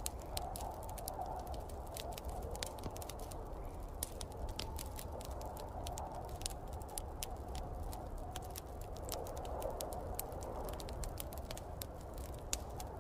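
Wood fire in a fireplace crackling with frequent small, irregular pops over the steady rush of snowstorm wind and a low rumble.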